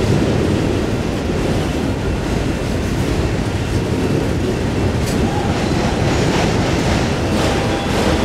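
Freight train cars rolling past: a loud, steady rumble of steel wheels on the rails, with a few faint clicks.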